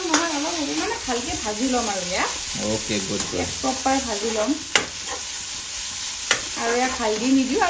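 Onion, ginger and garlic paste sizzling as it fries in hot oil in an iron kadai, stirred and scraped with a spatula. Two sharp taps of the spatula on the pan come in the second half. The paste is being fried until it turns brown.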